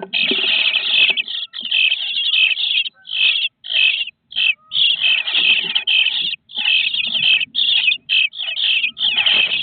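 Nestling birds in a nest box calling over and over: harsh, raspy calls repeated back to back with only brief gaps between them.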